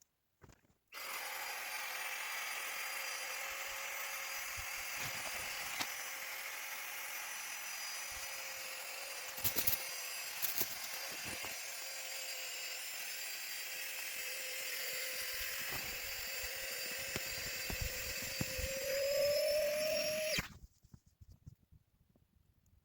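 Small electric air pump inflating a pack raft, running steadily for about twenty seconds. Its pitch rises shortly before it cuts off, as the raft fills.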